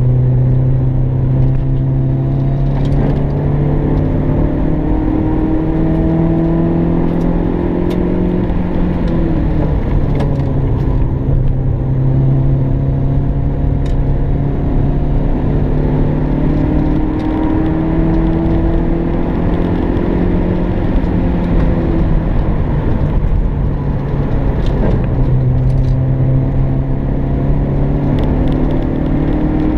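MG ZR's four-cylinder engine heard from inside the cabin while driving hard on track, the engine note climbing under acceleration and dropping back when the revs fall about nine seconds in and again around twenty-four seconds in. Occasional light clicks sound over it.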